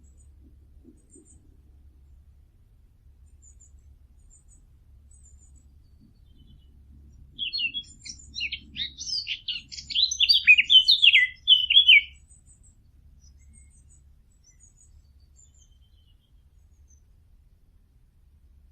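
A songbird sings a loud, rapid burst of chirping notes lasting about five seconds, midway through, with faint scattered chirps from more distant birds before and after.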